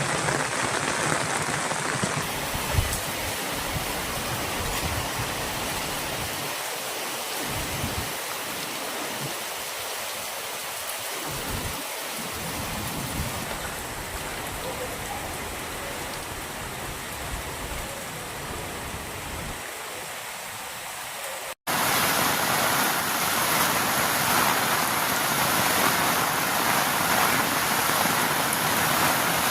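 Steady rain falling, an even hiss of rain noise. About two-thirds of the way through it cuts abruptly to a louder stretch of rain.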